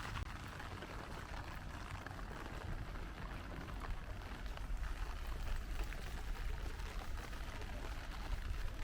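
Steady rain falling and splashing on a city street, a continuous wash of drips and patter over a low, steady rumble.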